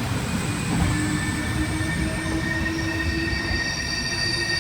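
Passenger train pulling into the station with its brakes and wheels squealing: several steady high-pitched squeals come in one after another over a low rumble of the wheels.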